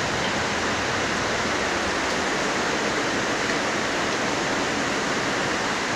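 Heavy rain pouring down steadily, a dense even hiss of water.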